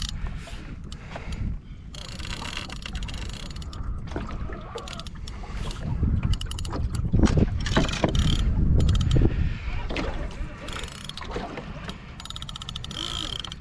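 Fishing reel being cranked during a fight with a hooked fish, its mechanism clicking and ratcheting in irregular runs. Under it is a steady low rumble, with a fast run of ticks near the end.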